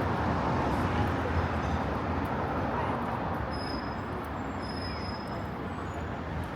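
City street traffic: a vehicle rumbling past, loudest early and then fading, with two brief thin high squeals near the middle.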